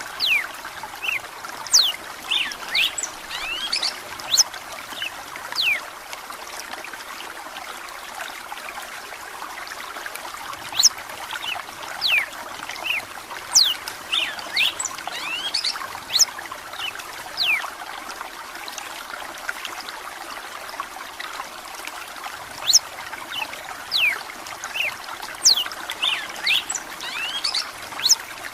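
Red-cowled cardinal (galo de campina) singing in repeated phrases of quick, sharp, falling whistled notes, over a steady background of running water. The song comes in clusters near the start, in the middle and again near the end.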